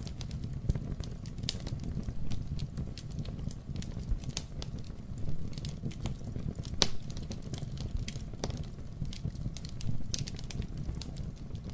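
Campfire burning: wood crackling with irregular sharp snaps and pops over a steady low rumble of the flames.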